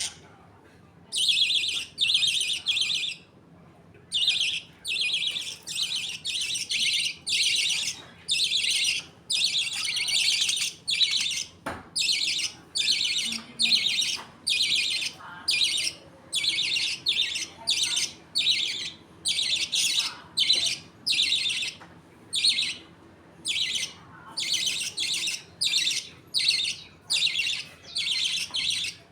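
Budgerigars calling: a long, even run of short, high, harsh chirps, about two a second, with a single sharp click about halfway through.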